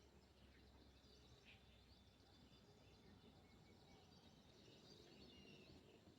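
Faint birdsong: scattered short chirps, more of them in the second half, over a thin steady high tone.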